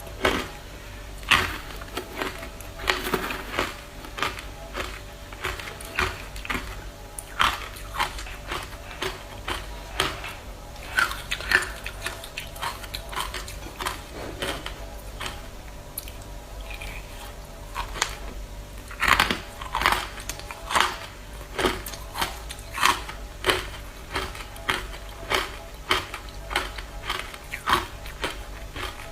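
Ice being bitten and chewed close to the microphone: a steady run of sharp, irregular crunches, about one or two a second.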